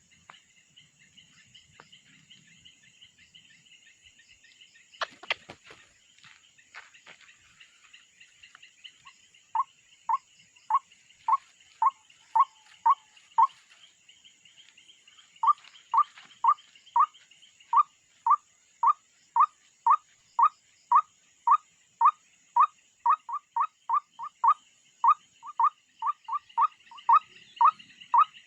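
A bird giving the same short, sharp call over and over, about two a second, starting about ten seconds in with a brief pause in the middle, over a faint steady high hum. There is a single thump about five seconds in.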